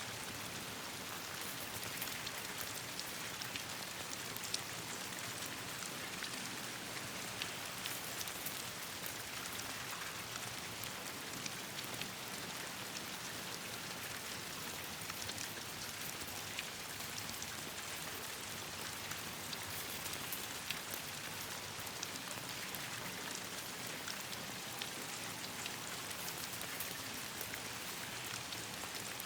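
Steady rain falling on leaves, with scattered sharp crackles and pops from a campfire burning in the rain.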